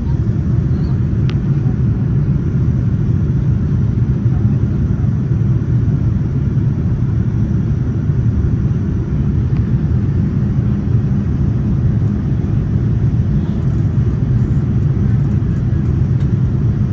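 Steady low rumble inside the cabin of a Boeing 787-9 airliner, engine and airflow noise heard from a window seat, with no rise or fall in pitch or loudness.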